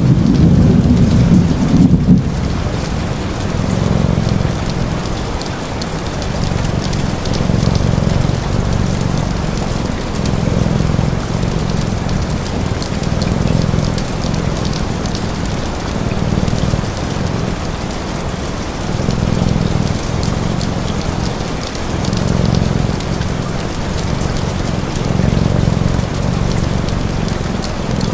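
Steady rain pattering, with a cat purring low underneath in swells that rise and fall every two to three seconds, one swell per breath.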